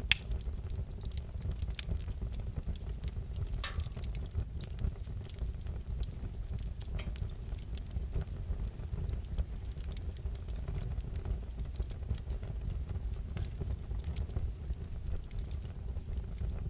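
Wood fire crackling in a fireplace: scattered sharp pops and snaps over a steady low rumble, with one louder pop right at the start.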